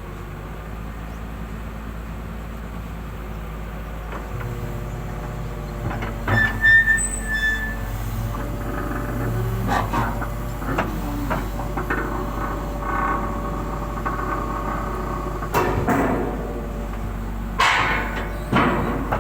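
A heavy machine's engine running steadily, working harder about four seconds in. Over it come a short high squeal and a series of loud clanks and knocks, the loudest about two-thirds of the way through and near the end.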